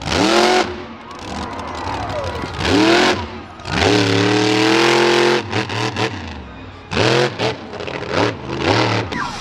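Monster truck engine revving hard in repeated throttle blasts: a quick rev at the start, another after about two and a half seconds, a longer held rev around the middle, then several short blips near the end, the pitch rising and falling with each.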